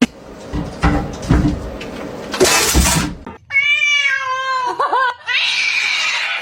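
A cat meowing: one long, drawn-out meow about halfway through, after a few knocks and a short burst of noise.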